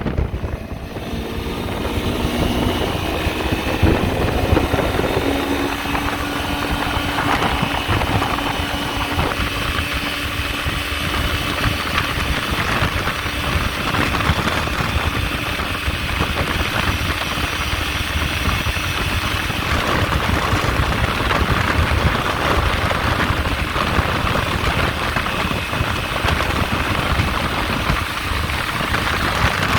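Honda PCX 150 scooter's single-cylinder engine pulling hard at full throttle, its pitch rising over the first few seconds and then holding steady at top speed, under a heavy rush of wind noise.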